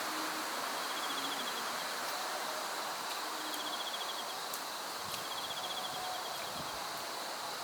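Insects calling outdoors: a short pulsed trill repeats about every two seconds over a steady high insect drone, with a constant background hiss.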